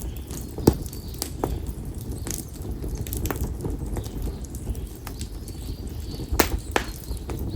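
Konara oak firewood burning in an open campfire, with irregular sharp pops and crackles over a steady low rumble. There is a loud pop about a second in, a few smaller ones after it, and two quick pops near the end.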